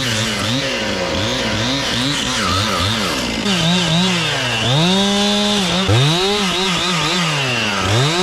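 Large two-stroke chainsaw cutting into a fir trunk, its engine speed rising and falling over and over. In the first half the swings are quick, several a second; after that the saw holds high revs for a second or so at a time between deeper dips.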